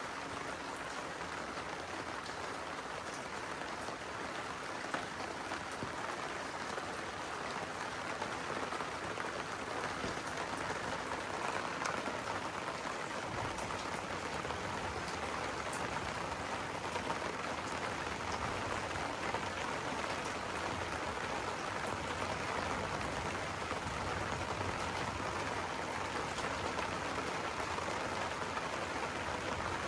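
Steady rain falling in a thunderstorm, an even hiss with no breaks; a low rumble sits underneath from about halfway through.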